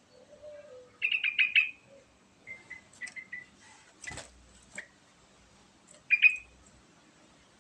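Yellow-vented bulbul singing: two short, bubbly phrases of rapid notes, about a second in and again near 6 seconds, with a few short chips in between. A sharp knock sounds about 4 seconds in.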